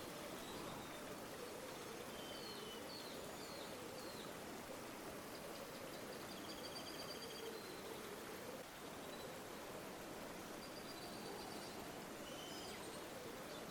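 River water flowing with a faint, steady rush. Small birds chirp and give short trills above it, several times about two to four seconds in, again around six to seven seconds in, and near the end.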